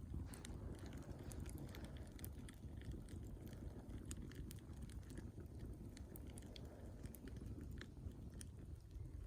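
Campfire burning: wood crackling with scattered sharp pops over a low, steady rumble of the flames.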